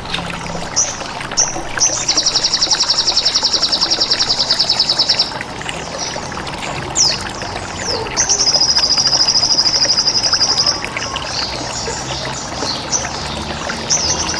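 Sogon songbird song: short high chirps and two long, rapid buzzing trills, the first about three seconds long starting about two seconds in, the second about two and a half seconds long from about eight seconds in. Under it runs a steady trickle of water.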